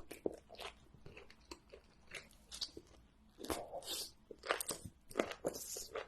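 Close-miked eating of crunchy food: a string of short, crisp bites and crunches with chewing between them.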